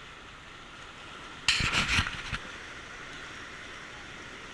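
Steady rush of fast river water around a raft, with a sudden loud burst of noise about a second and a half in that lasts under a second.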